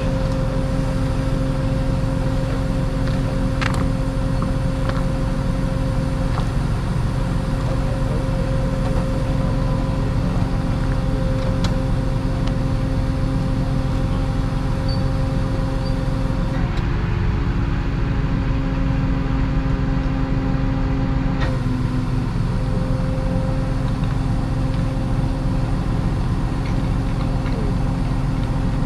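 A motor vehicle engine running steadily, a constant low drone with a held hum. About 17 seconds in the hum changes pitch for around five seconds, then settles back.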